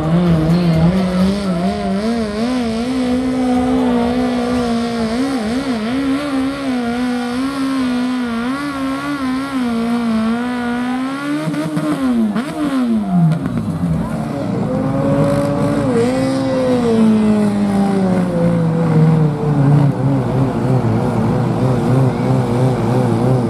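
Loud pulling-tractor engine running at high revs under load, its pitch wavering. About halfway through, the revs drop sharply, then pick up again and hold at a lower, steady pitch.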